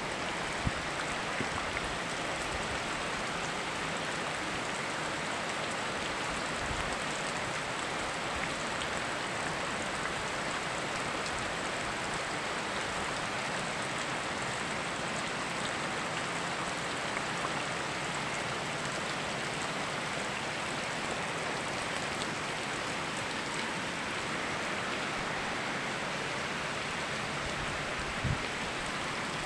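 Steady rain falling together with a flowing river, an even, unbroken hiss of water. A brief low thump sounds near the end.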